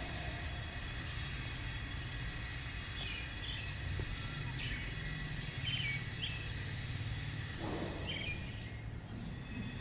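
Short, scattered bird chirps, about half a dozen, over a steady low outdoor rumble of city background noise.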